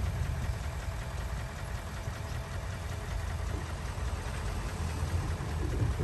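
Heavy diesel earthmoving engine running steadily at low speed, a deep even rumble.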